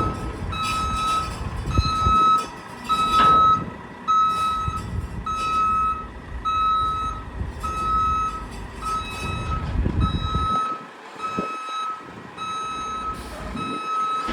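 Mack refuse truck's backup alarm beeping steadily while it reverses, a high single-tone beep about one and a half times a second, over the low rumble of the diesel engine. There is a brief knock about three seconds in.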